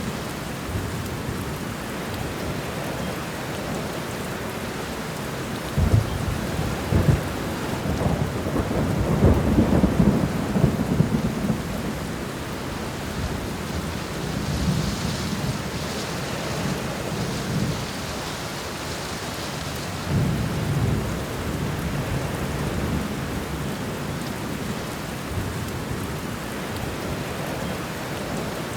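Steady rain with thunder: a sudden clap about six seconds in rolls into a long rumble lasting several seconds, and a shorter rumble comes about twenty seconds in.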